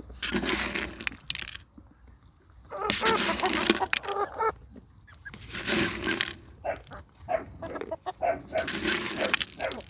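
Chickens clucking and squawking in four bursts of rough calls with short pauses between.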